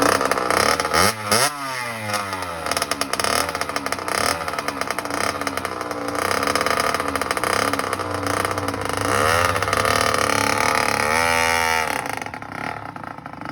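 Small dirt bike engine revving up and down unevenly as a beginner works the throttle, with several quick rises in pitch.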